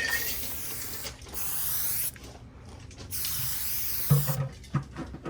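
Aerosol spray paint can spraying in three bursts of about a second each, followed by a few sharp clicks near the end.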